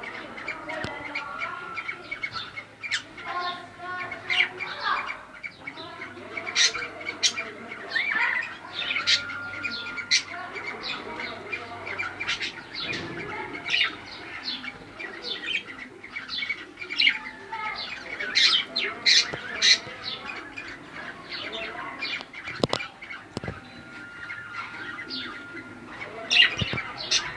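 Cockatiels chirping and squawking, with many short, sharp calls following one another throughout and a few brief held whistles.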